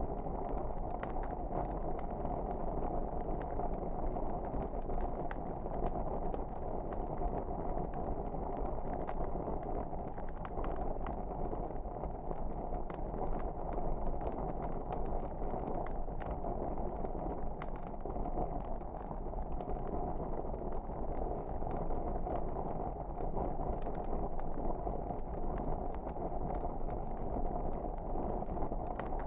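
Fireplace fire burning, a steady rushing sound with scattered small crackles and pops.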